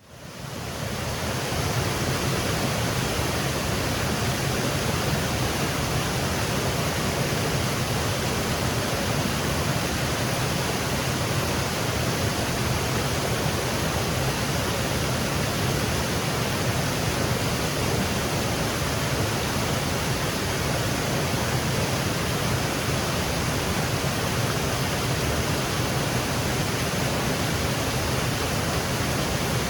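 Waterfall, water cascading with a steady, unbroken rush that fades in over the first second or so.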